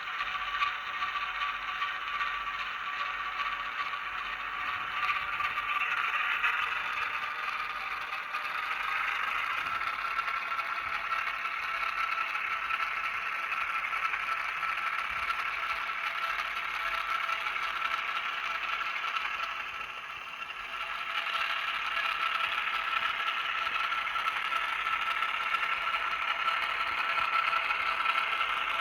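N gauge Graham Farish Class 08 model locomotive running on track, its wheels rattling and clattering over the rails under a steady motor whine. The whine steps up in pitch about eight seconds in, and everything dips briefly about twenty seconds in.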